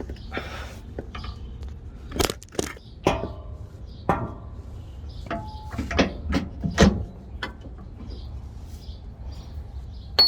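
Irregular metallic clanks and knocks of strut parts and tools being handled, a few ringing briefly, over a steady low hum.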